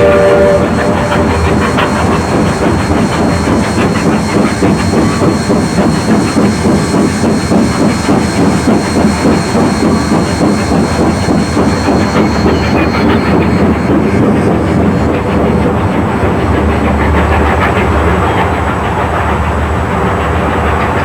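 Steam locomotive working along the line: a chord-like whistle blast cuts off about half a second in, followed by rapid, rhythmic exhaust chuffing with steam hiss and rail clatter.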